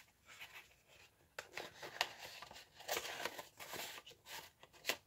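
Paper rustling and soft taps as a paper tag is handled and slid into an envelope pocket, in scattered short bursts from about a second and a half in.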